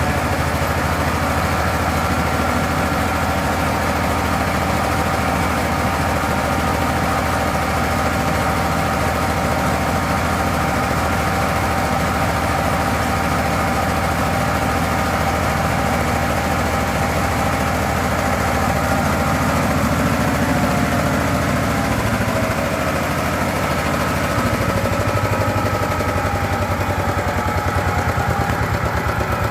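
Diesel engine of a mobile rice milling machine running steadily, with a continuous high whine from the milling machinery over the engine's drone.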